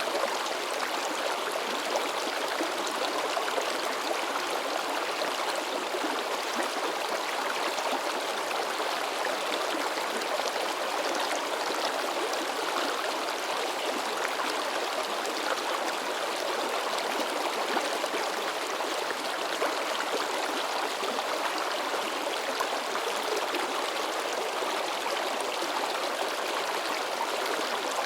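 Shallow mountain river babbling and splashing over rocks: a steady, lively rush of water.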